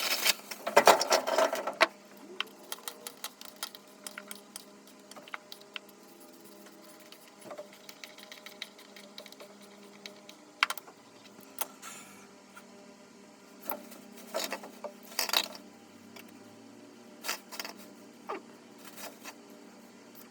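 Intermittent clinks and rattles of small hard objects being handled, with a dense burst of clatter at the start and scattered clicks after.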